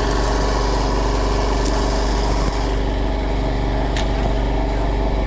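A fishing boat's engine running steadily at an even speed, with a couple of faint brief clicks over it.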